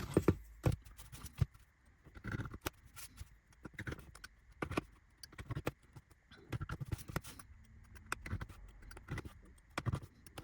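Scattered small clicks, taps and light scrapes as laser-cut wooden kit parts are handled and cut free of the sheet with a craft knife.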